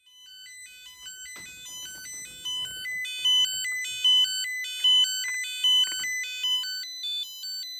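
Handheld nickel-strip spot welder's buzzer beeping nonstop: a rapid run of beeps stepping between a few pitches, about four a second, like a jingle. The welder is glitching, and the owner suspects it may be a low-battery protection warning.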